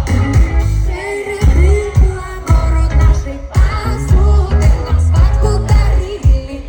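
Live pop band in concert: a singer's voice over a heavy, rhythmic bass and drum beat through the PA.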